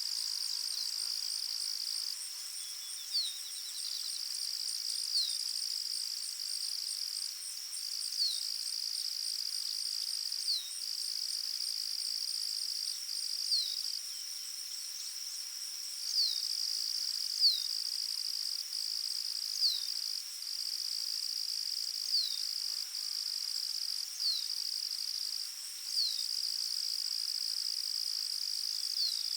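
Steady, high-pitched trilling of crickets or similar insects, with brief breaks. Over it, a bird gives a short falling note about every two seconds.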